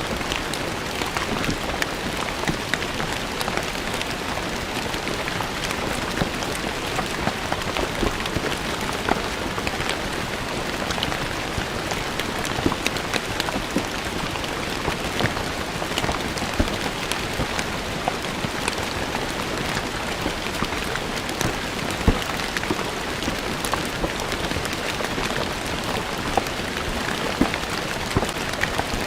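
Steady rain falling on stone paving, a dense even patter with many individual drops ticking sharply on the stone.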